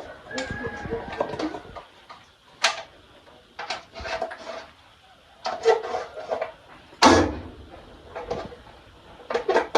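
Dishes and serving utensils knocking and clinking, a string of separate knocks with the sharpest about 3 and 7 seconds in, with low voices between them.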